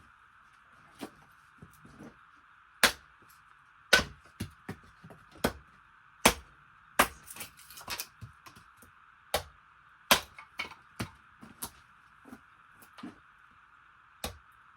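Hard, dense wood being chopped and split into kindling: sharp, irregular cracks and knocks, about one a second, some much louder than others.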